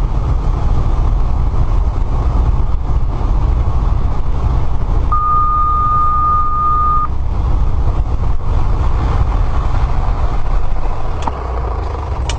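Light aircraft's engine and propeller running steadily, heard from inside the cockpit while taxiing, with a single steady beep lasting about two seconds about five seconds in.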